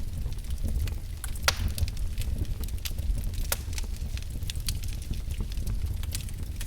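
Wood fire in a fireplace crackling, with many small snaps and pops over a low steady rumble. Two sharper pops stand out, about a second and a half in and again about two seconds later.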